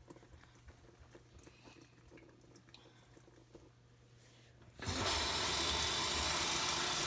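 A faint steady hum, then about five seconds in water suddenly starts gushing into a utility sink and keeps running with a steady rush.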